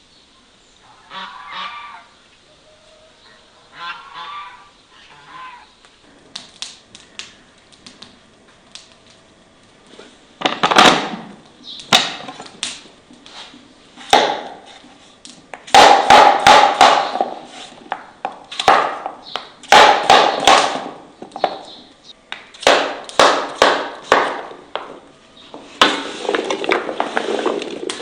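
Geese honking: two faint calls early on, then from about ten seconds in a run of loud, harsh, repeated honks, with some sharp clicks among them.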